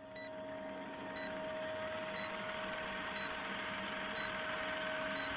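Electronic beeping: a short high beep about once a second over a steady tone and hiss.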